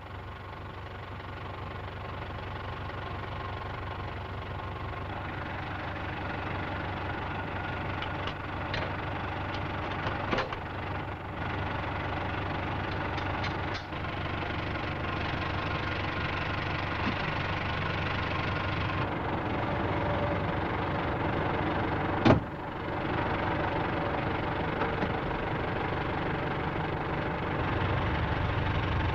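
International Harvester 784 tractor's diesel engine running steadily at idle, slowly getting a little louder. A few short knocks sound over it, with one sharp clank about two-thirds of the way through.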